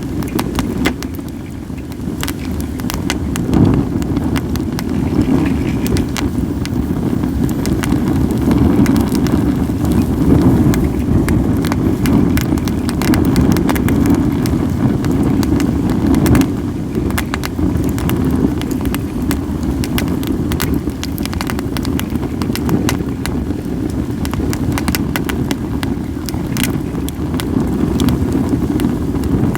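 Acacia and mixed firewood burning, crackling and popping in many sharp, irregular snaps, over a steady low rumble of wind buffeting the microphone.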